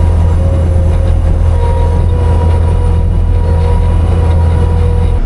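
Skid steer's diesel engine running steadily under load, a loud even rumble with a faint steady whine above it, heard from inside the cab.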